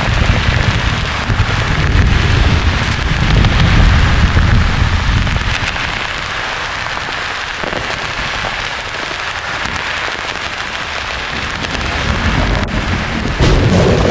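Thunderstorm sound: a steady, rain-like hiss with rolling thunder rumbling low for the first five seconds or so, then fading. A fresh thunder rumble breaks in suddenly near the end.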